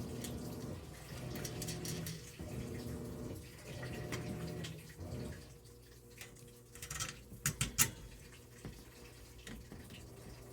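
Washing machine running with water flowing as it fills, its motor humming on and off for the first five seconds and then steadily. A handful of sharp metallic clicks and clinks come about seven to eight seconds in, from shelf hardware being handled.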